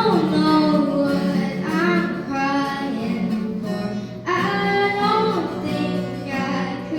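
Female voice singing a slow pop song, held and gliding notes, with acoustic guitar accompaniment.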